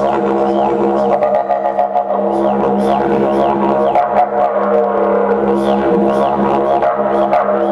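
Didgeridoo music: a steady low drone with rhythmically sweeping, wah-like overtones.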